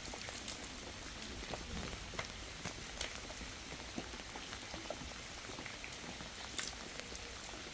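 Steady rain falling, with individual drops tapping sharply and irregularly close by.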